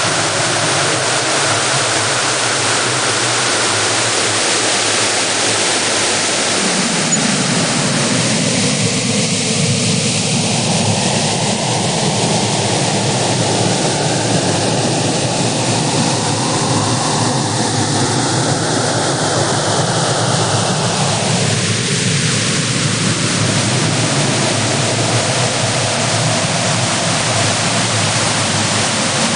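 Synthesized spectrogram-art audio: a steady, loud rushing hiss like a waterfall, with a human face image encoded in its spectrum. The low end grows stronger from about six seconds in.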